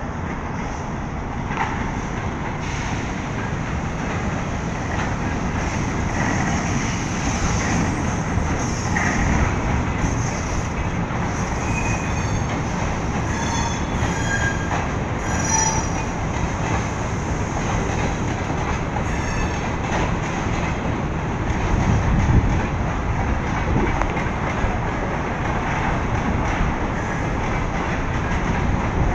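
Train running along the rails: a continuous rumble with high wheel squeals heard over several seconds in the middle.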